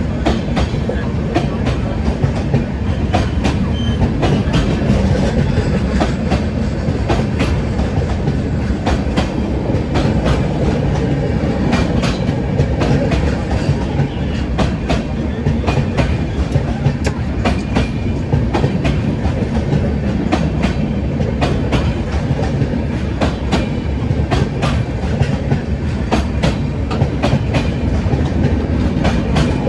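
A train running on rails: a steady rumble with frequent sharp clicks of wheels over rail joints, unbroken throughout.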